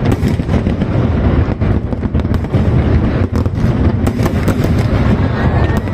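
A fireworks display going off: a continuous rapid crackle of many sharp bangs over a deep rumbling boom.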